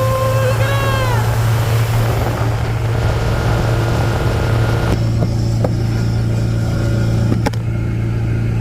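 Motorboat engine running steadily with a constant low hum. About a second in, a short pitched call rises, holds and falls away, and a few sharp clicks come in the second half.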